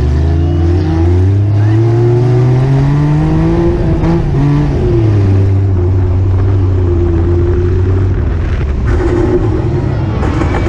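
Daihatsu Mira rollover car's small engine heard close up, revving higher as the car accelerates, easing off about four seconds in, then running steadily. Near the end there are a few sharp knocks as the car tips over.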